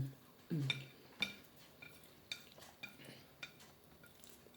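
Eating utensil clinking lightly against a plate: about eight short, ringing clinks spread a second or less apart. A brief voice sound comes at the very start and again about half a second in.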